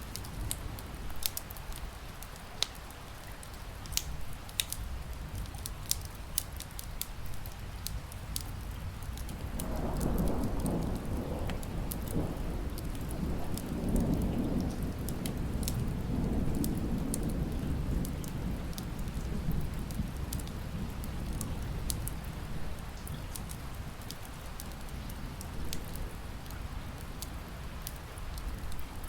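Wood fire crackling with sharp scattered pops over steady rain. About ten seconds in, a long low rumble of thunder swells and fades away over roughly ten seconds.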